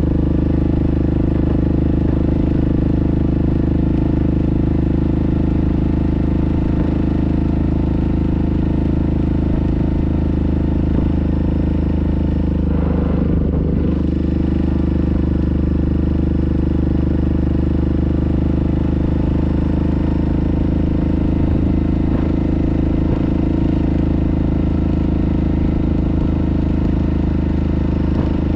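Yamaha Grizzly ATV engine running at a steady speed while riding, a constant drone with only a brief unevenness about halfway through.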